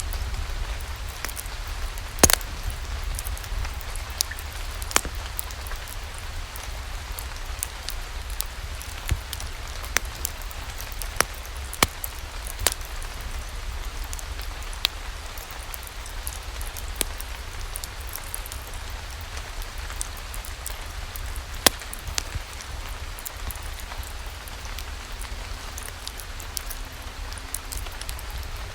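Steady rain falling, with scattered sharp ticks and pops standing out over the even hiss.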